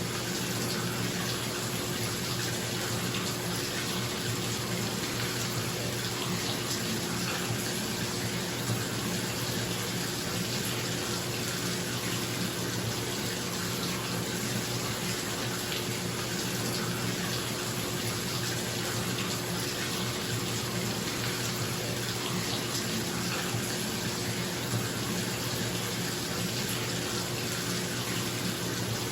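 Water running steadily from a tap into a bathtub, an even rushing splash, with a bathroom exhaust fan's steady hum beneath it.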